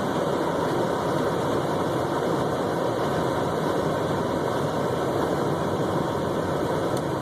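Steady engine and road noise heard from inside the cabin of a car on the move.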